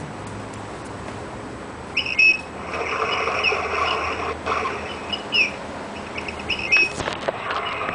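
Birdsong: repeated high whistles and chirps, some gliding in pitch, over a steady hiss, starting about two seconds in.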